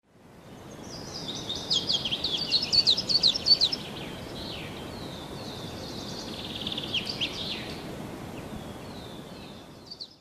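Small birds chirping in rapid strings of short, high, downward-sweeping calls over a steady outdoor ambience that fades in at the start. The chirping is busiest a couple of seconds in and again about seven seconds in, and the ambience cuts off abruptly at the end.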